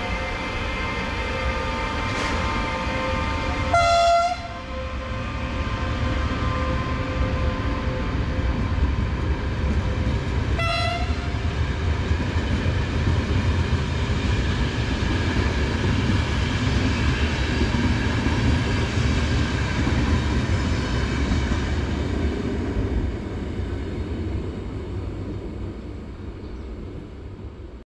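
Passenger train hauled by a Siemens HellasSprinter (ES 64 U) electric locomotive passing by, with a steady rumble of wheels on rails. A loud horn blast comes about four seconds in and a shorter, fainter one about eleven seconds in. The rumble fades away near the end.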